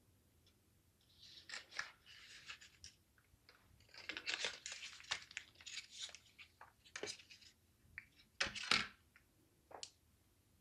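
Plastic packaging being handled and torn open, with irregular crackling and tearing in several bursts and the sharpest burst near the end.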